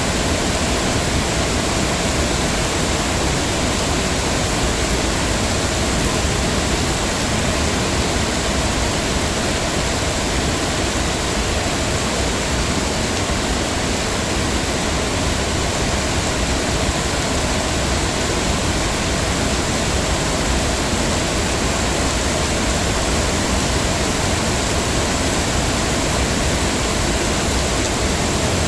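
Heavy rain falling steadily, a dense even hiss of drops with no breaks or single events.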